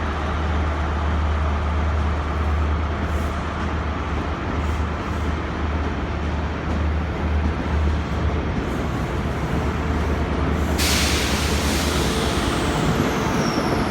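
Diesel engine of a Class 43 HST power car departing, a steady low drone. About eleven seconds in, a loud hiss of air starts suddenly and carries on over the drone.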